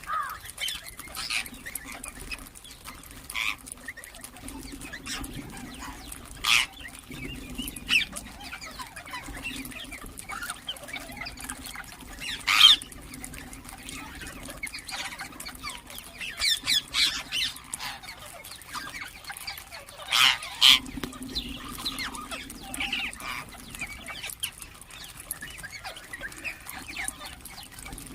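Ringneck parrots calling: short, sharp squawks and chirps at irregular intervals, with a few loud shrieks standing out, over a low steady hum.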